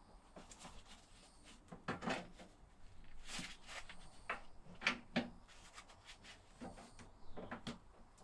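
Irregular light knocks, clicks and scraping of objects being handled, the loudest a couple of sharp knocks about two and five seconds in.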